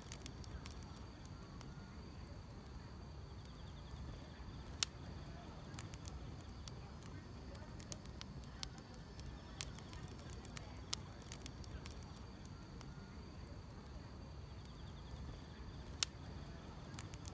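Wood fire crackling, with scattered sharp pops over a low steady rumble; the loudest pops come about five seconds in and near the end. Faint insects chirp steadily behind it.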